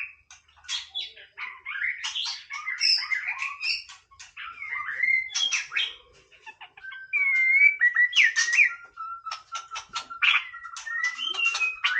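White-rumped shama singing a varied song of rising and falling whistled phrases. Sharp clicking notes run through it, coming fast in the second half, and a long, even, lower whistle is held in the last few seconds.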